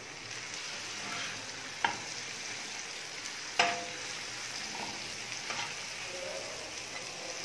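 Chopped onions and tomatoes sizzling in hot ghee and butter on an iron tawa, the sizzle swelling as the tomatoes go in. A metal spatula scrapes and knocks against the griddle while stirring, the sharpest knock about three and a half seconds in with a short ring.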